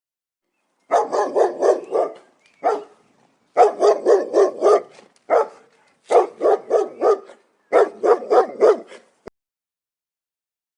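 A dog barking in four quick runs of about six barks each, with a single bark between the runs.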